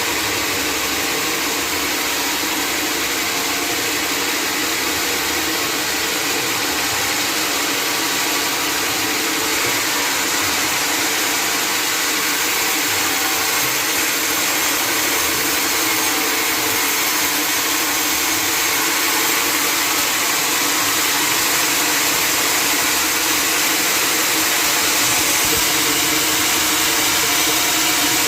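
Sawmill running steadily: the motor of a band saw mill with a dense hissing noise over it, growing slightly louder toward the end.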